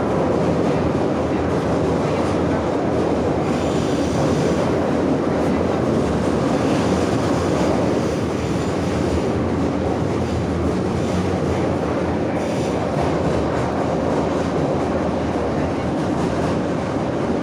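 Moscow metro 81-717 "Nomernoy" train running between stations, heard from inside the car: a loud, steady rumble of wheels on rail and traction motors, with a brighter hiss rising for a few seconds about four seconds in.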